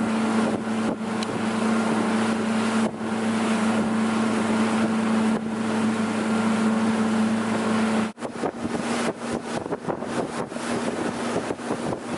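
Motorboat engine running under way with a steady hum, mixed with wind on the microphone and water rushing past. About eight seconds in the engine note drops and the sound turns choppy, with gusts and splashing as the boat bounces over wakes.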